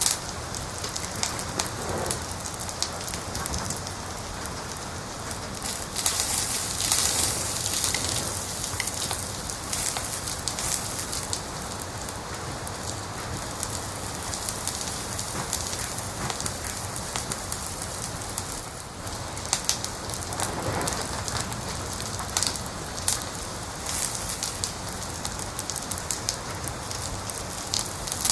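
Wood fire crackling and popping steadily, with a louder, denser burst of crackles about six seconds in.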